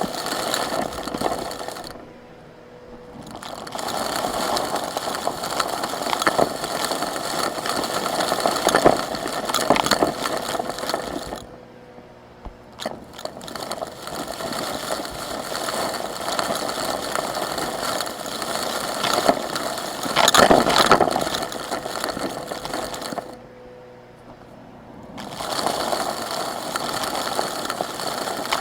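Vacuum cleaner sucking up small rocky pieces, with a dense rattle and scrape of the bits through the nozzle. The sound drops away three times, briefly, and picks back up.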